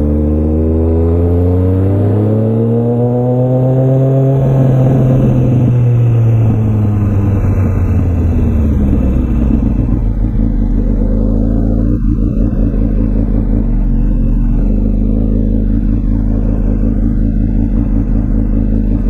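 2004 Honda CBR1000RR Fireblade's inline-four engine through a Jardine titanium aftermarket exhaust, its pitch rising smoothly for about four seconds, then falling back and settling to a steady, low, pulsing run for the rest of the time.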